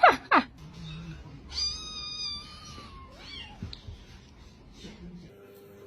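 A cat meowing: one drawn-out, high call about a second and a half in, sinking slightly in pitch. It follows two short, sharp squeals right at the start that sweep steeply downward.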